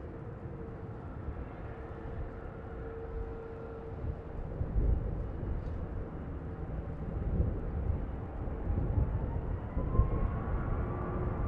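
Jet airliner engines heard over a gusty wind rumble on the microphone, with a whine that rises in pitch over the last few seconds.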